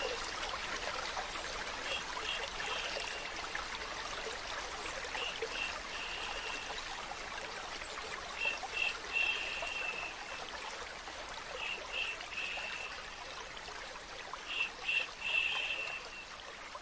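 Steady trickling stream with a rhythmic shushing laid over it: two short 'shh' sounds then a longer 'shhh', repeated about every three seconds, the kind of shushing used to soothe a baby to sleep.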